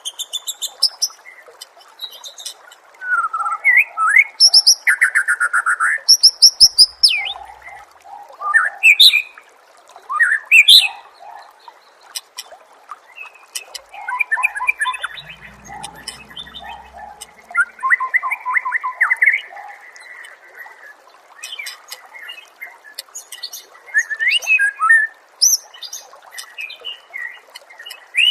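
Recorded songbird song for bird training: bursts of varied chirps, fast rattling trills and sharp whistled notes, with short pauses between phrases.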